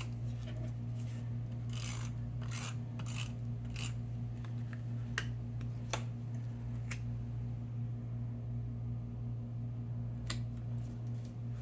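Scattered small clicks and rustles of paper-craft pieces being handled and stuck down, about eight over the span, over a steady low electrical hum.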